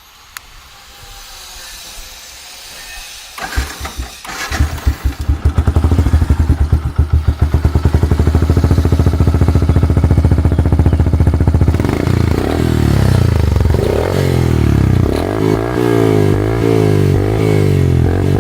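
Yamaha Fazer's 153cc single-cylinder engine starting through an aftermarket Tech Hardy exhaust: it cranks and catches about four seconds in, then idles with a steady beat. From about twelve seconds in the throttle is blipped repeatedly, the pitch rising and falling.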